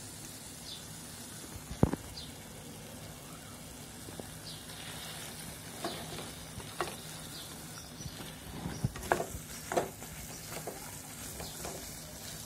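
Chicken dry masala sizzling in a nonstick pan as a spatula stirs it, with a sharp knock about two seconds in and a quick run of spatula knocks and scrapes against the pan about nine seconds in.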